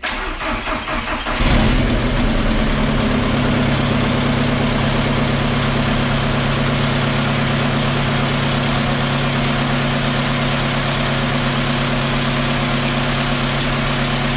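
Volkswagen Polo's 1.9 TDI four-cylinder turbodiesel cranking for about a second and a half, then catching and settling into a steady idle. It runs with no downpipe or intake on its new hybrid turbo.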